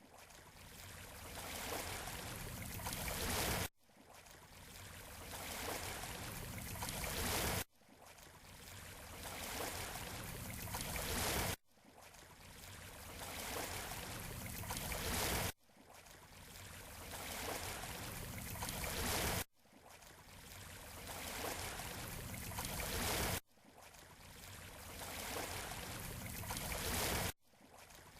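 Surf washing on a beach shore, heard as a short loop of about four seconds played over and over. Each pass swells gradually, then cuts off abruptly and starts again, about seven times.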